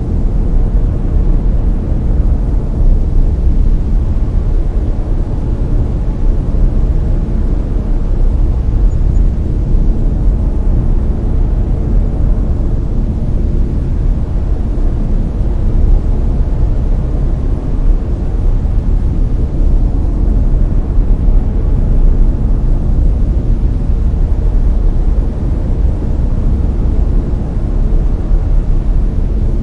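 Layered brown noise: a steady, deep hiss, heaviest in the bass and thinning towards the treble, with no changes or events.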